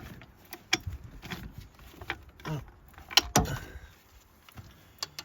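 Irregular metal clicks and knocks of a socket and ratchet being fitted onto a coil pack bolt in a truck's engine bay, with the loudest knocks a little over three seconds in.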